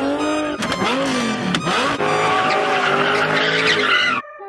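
Car doing donuts: the engine revs rise and fall over tyres squealing and skidding. About four seconds in the sound cuts off abruptly to a quieter steady hum.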